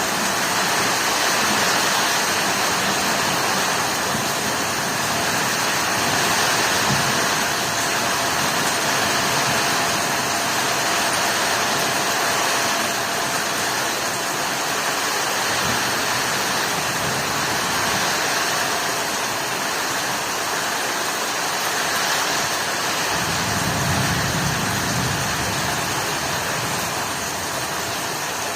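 Heavy rain pouring in a steady, loud hiss. A low rumble swells under it twice in the second half.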